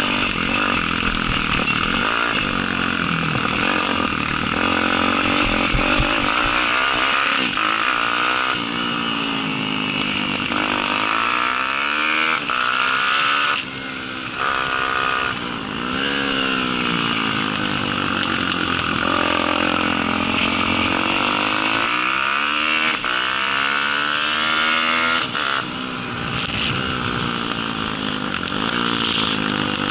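Single-cylinder Daytona 190 four-stroke pit bike engine under hard racing throttle. Its pitch climbs and falls again and again as the rider accelerates, shifts and brakes into corners, with a sharp drop several times.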